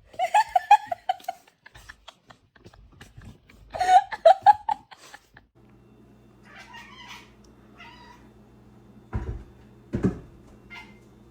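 A cat yowling: two long, wavering meows about four seconds apart. From about halfway a low steady hum sets in, and two dull thumps come near the end.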